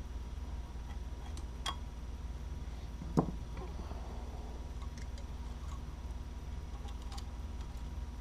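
Faint small metallic clicks and taps of needle-nose pliers and a scribe working valve keepers onto a compressed valve spring, with one louder, duller knock about three seconds in. A steady low hum runs underneath.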